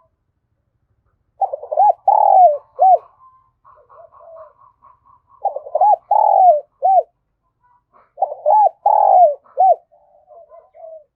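Spotted doves cooing: three loud coo phrases about three seconds apart, each of four notes with a longer third note, and softer quick runs of higher notes in between.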